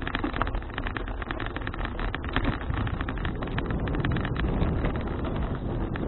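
Wind rushing over an action camera's microphone on a moving bicycle, a steady low rumble mixed with road noise and a fast, continuous crackling rattle.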